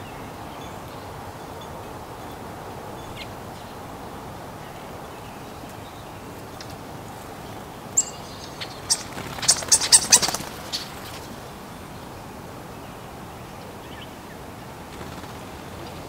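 Small songbird: one sharp chirp about eight seconds in, then a quick flurry of sharp high notes around ten seconds, over a steady background hiss.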